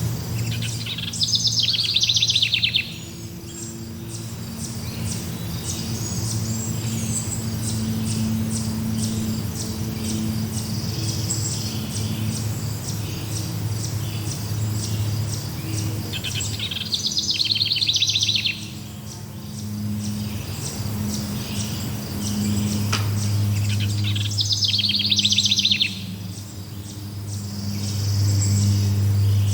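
Songbird singing three loud, rapid trilled phrases about a second in, around two-thirds through and near the end, over steady chirping of insects and a low steady hum.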